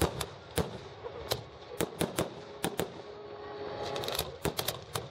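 Fireworks bursting: a string of sharp, irregular cracks and bangs, a few each second, thickening into a quick cluster near the end.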